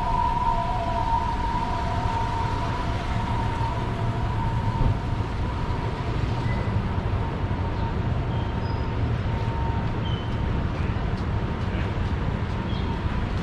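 Steady low street-traffic rumble with a continuous high tone over it that fades out near the end.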